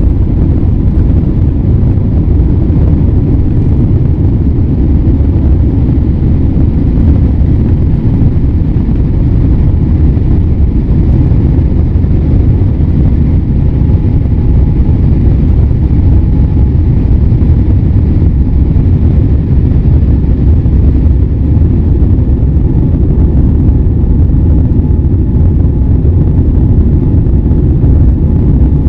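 Cabin noise of an ANA Boeing 787-8 Dreamliner at high thrust during take-off and climb: the Rolls-Royce Trent 1000 engines and the airflow make a loud, steady, deep rumble with a faint steady whine above it.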